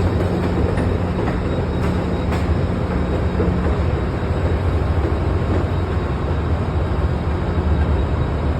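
Amtrak Acela Express train rolling past: a steady rumble of the train and its wheels on the rails, with a couple of faint clicks about two seconds in.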